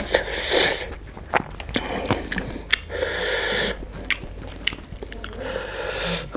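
Close-miked chewing and mouth sounds of a person eating chicken biryani by hand: wet clicks and smacks, with a few short breaths in between.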